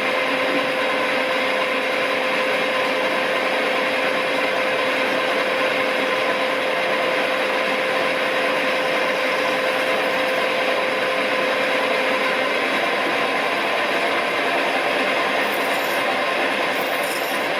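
Smart & Brown Model A lathe running under power, with the tool cutting brass and a steady hiss of cutting. A steady tone from the machine stops about twelve seconds in while the cutting noise carries on.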